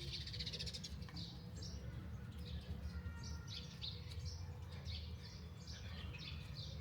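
Several small songbirds chirping and singing in short, quickly repeated notes over a low, steady background rumble.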